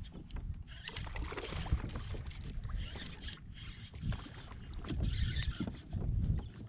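Water swishing and splashing around a kayak in uneven bursts about every one to two seconds, over a low rumble.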